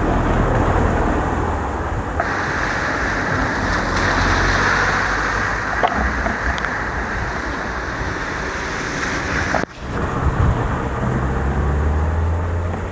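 Heavy rain and wet-road noise, a steady loud wash with a low rumble underneath; it drops out for a moment about ten seconds in.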